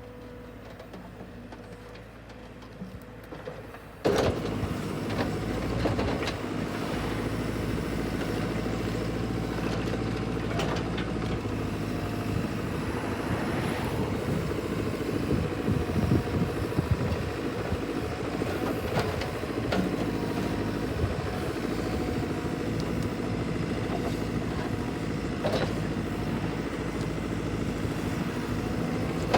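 An engine running steadily, starting suddenly about four seconds in, with scattered clicks and knocks over it; before that only a faint steady hum.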